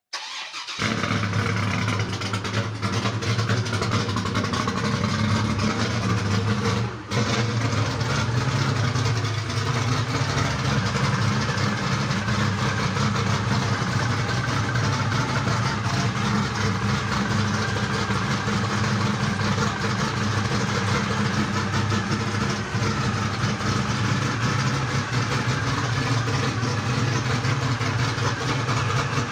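Chevrolet Camaro's LS3 V8 engine running steadily with a deep, even tone, with a brief dip about seven seconds in.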